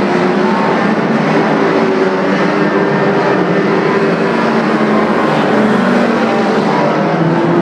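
Oval-track racing car engines running hard at high revs: a loud, steady drone with several engine pitches drifting slightly up and down.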